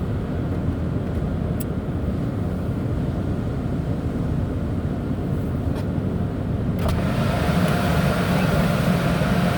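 Steady low rumble of the automatic car wash and the car, heard from inside the cabin. About seven seconds in, a hissing wash of spray starts over it, the pre-soak being sprayed onto the car.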